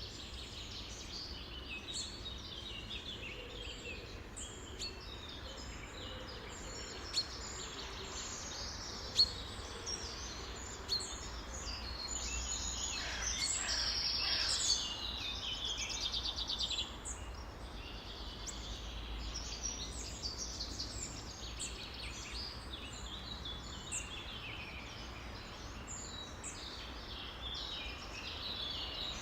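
A chorus of many songbirds calling and singing at once, short chirps and whistles overlapping throughout. Around the middle, one bird gives a louder, rapid trill of quickly repeated notes. A low, steady rumble runs underneath.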